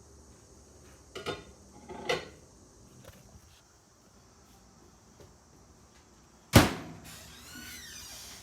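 Microwave oven being loaded: two light knocks, then about six and a half seconds in a loud, sharp clunk of the microwave door shutting, followed by a softer rustle and clatter.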